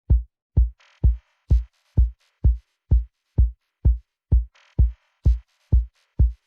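Electronic dance track down to a bare, steady kick drum, a little over two beats a second, each hit dropping quickly in pitch. Faint hissy swells sound between the beats twice.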